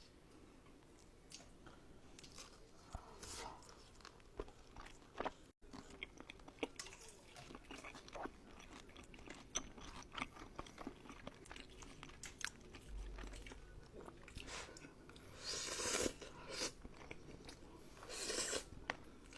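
Close-miked eating: crunchy bites into fried chicken and chewing, a run of irregular crackly crunches that grows louder in clusters near the end.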